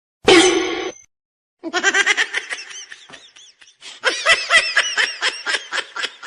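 High-pitched laughter in quick repeated bursts, about five a second, pausing briefly partway through. A short loud burst of sound comes just before the laughter begins.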